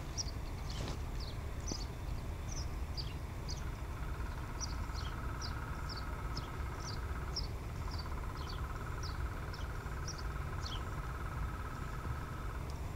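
Small birds chirping in short, repeated calls over a low steady rumble, with a steady buzzing trill joining about four seconds in and breaking off briefly near the middle.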